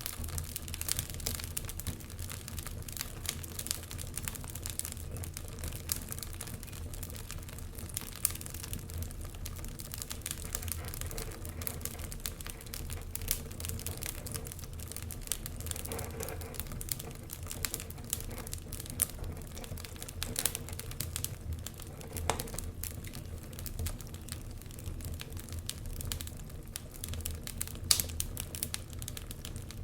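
Wood fire burning in a fireplace: a steady low rumble and hiss with irregular sharp crackles and pops, one louder pop near the end.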